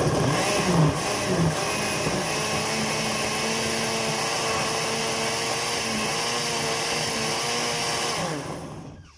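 Kitchen blender running, blending roasted tomatoes, chilies and water into a smooth sauce. It is uneven and chunky for the first second or so, then settles into a steady whir. Near the end the motor winds down and stops.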